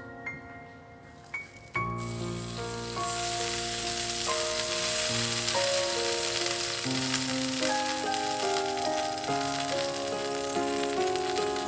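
Food sizzling in hot oil in a pan, the hiss starting suddenly about two seconds in and carrying on steadily, over soft piano background music.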